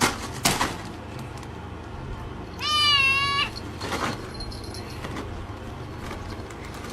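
A cat meowing once, a single wavering, high-pitched meow a little under a second long, about three seconds in.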